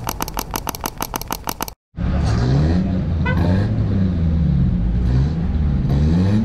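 A quick run of mouse-click sound effects, about seven a second, cuts off. After a brief gap, an off-road vehicle engine is heard revving up and down repeatedly.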